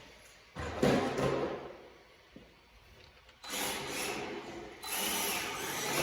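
Electric MST RMX 2.0 RC drift car driving on fresh rubber tyres in bursts of throttle: motor whine with tyre noise, one burst about half a second in that dies away, then another at about three and a half seconds that runs on steadily from about five seconds.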